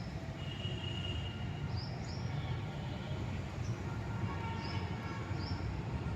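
Birds chirping, short high calls about once a second, some in quick pairs, over a steady low rumble of outdoor background noise.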